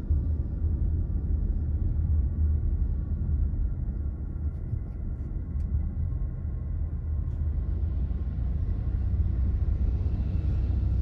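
Steady low rumble of a car being driven: engine and road noise with no sudden events.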